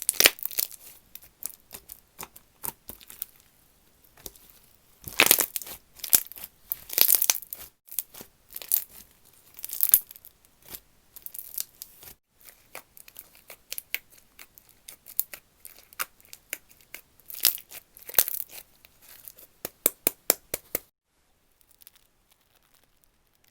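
Slime being handled by hand: pressed, poked and stretched, giving a dense run of sticky clicks, pops and crackles. It stops abruptly near the end.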